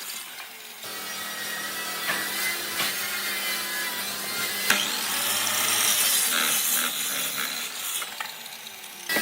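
A tool working wood, scraping steadily across the board; it picks up about a second in and eases off near the end.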